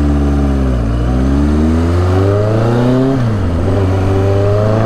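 1983 Suzuki GS 1100E's air-cooled inline-four engine pulling under way. Its pitch climbs, drops at a gear change about a second in, then climbs again until about three seconds in. It then falls as the throttle closes and settles to a steady note.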